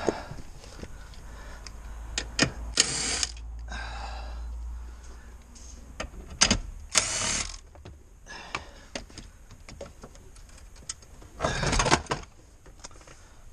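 Hand work on car interior trim: a small screwdriver and plastic parts clicking, knocking and scraping, with a few short rustling bursts about 3, 7 and 12 seconds in.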